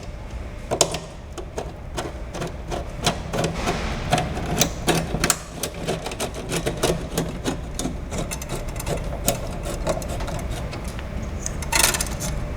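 Worm-drive hose clamps being tightened around a metal fire extinguisher bottle with a hand tool: rapid, irregular metallic clicking and ratcheting, with a louder rattle near the end.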